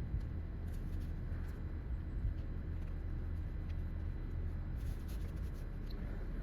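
Faint scraping and light ticks of a screwdriver prying at a plastic clip on the vacuum switching valve, over a steady low hum.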